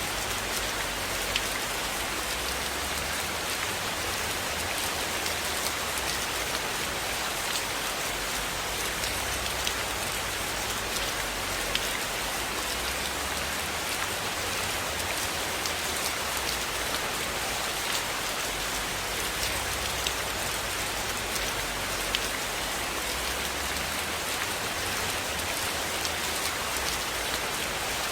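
Steady rain falling, an even hiss of many drops with scattered light ticks from individual drops.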